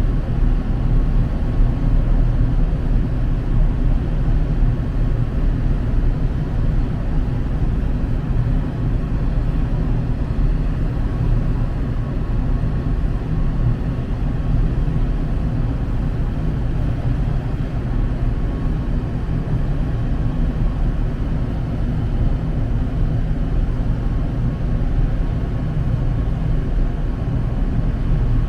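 Steady low rumble of the Jumbo Ferry Ritsurin 2 under way, its engine and hull noise heard on board, with no clear rhythm or change.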